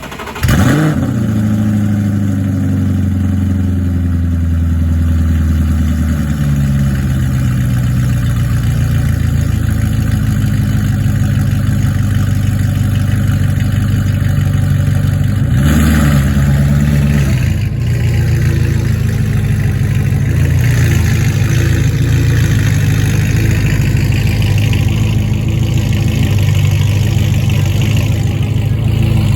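Car engine catching and blipping briefly as it starts, then idling loudly. The idle starts high and settles lower after about six seconds. One short rev comes just past the halfway point.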